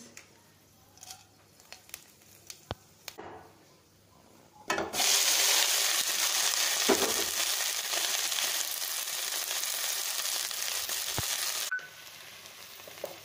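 Chopped okra frying in hot oil in a pan: a loud, steady sizzle starts suddenly about five seconds in and drops abruptly to a softer sizzle near the end. Before it, a few faint scattered ticks come from mustard seeds heating in the oil.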